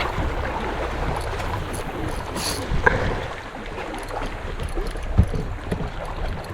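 Steady wind and water noise aboard a boat at sea, with a low rumble and a few faint brief knocks.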